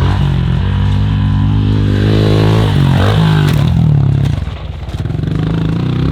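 Dirt bike engine revving under throttle: its pitch climbs to a peak a couple of seconds in, falls away, dips briefly past the middle as the throttle is rolled off, then picks up again.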